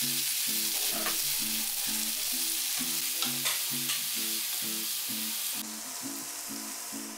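Chopped tomatoes, onions and garlic sizzling in hot oil in a pan as they are stirred, with a few light knocks of the spoon. The sizzle eases a little near the end.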